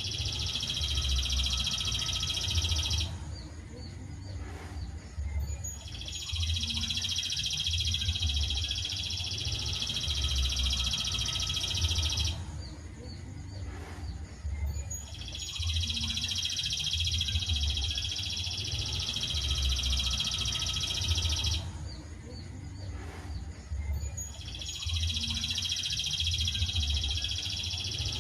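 Looped songbird training recording: a long, dense, high-pitched trill lasts about six seconds, stops for about three, and repeats at an even pace, three times in all. A low pulsing rumble runs underneath.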